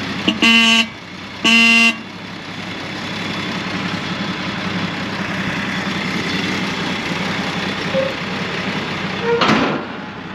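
1949 International KB-5 truck horn sounding two short honks about a second apart, over the steady idle of its six-cylinder Green Diamond 233 engine. A brief noisy burst follows near the end.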